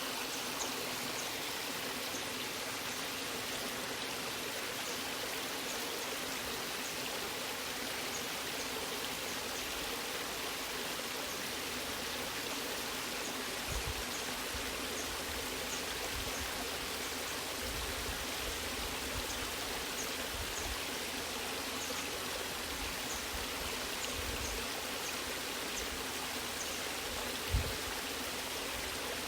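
Natural waterfall rushing steadily as an even wash of falling water, with a brief low thump near the end.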